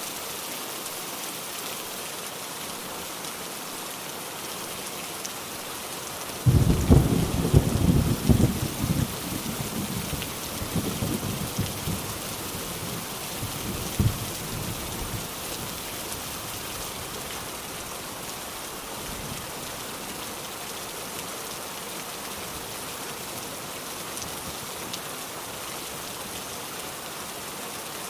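Steady rain falling, with a sudden clap of thunder about six seconds in that rumbles on, fading over several seconds.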